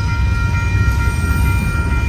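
Union Pacific double-stack intermodal freight train rolling past, its cars giving a steady low rumble on the rails. Over it, the grade crossing's new electronic bell rings steadily with a high tone.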